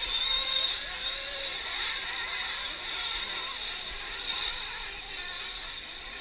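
Several 1/8-scale nitro RC truck engines running on the track, a continuous high-pitched whine that wavers as the trucks speed up and slow down.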